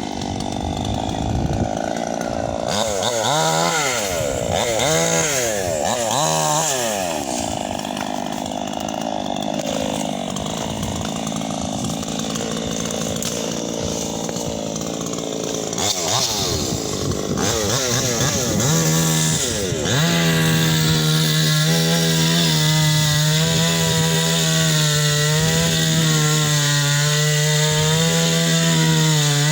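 Two-stroke chainsaw engine revving up and down several times, then held at steady high revs for the last ten seconds or so.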